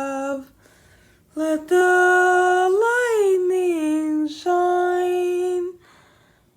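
A single voice singing unaccompanied in long held notes. One note ends about half a second in; after a short pause a long note swoops up in pitch and back down, then another held note stops near the end.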